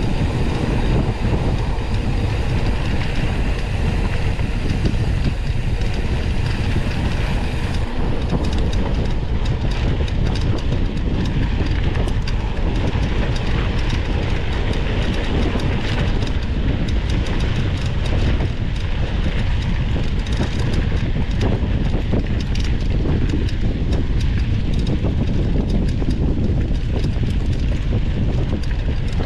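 Mountain bike rattling and clattering over rough trail, heard from an onboard camera, with steady wind rushing on the microphone. The clatter of small knocks gets busier about a quarter of the way in.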